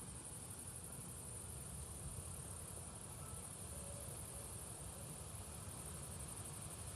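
Crickets or similar insects chirring in a steady high-pitched hiss, with a low uneven rumble of wind on the microphone underneath.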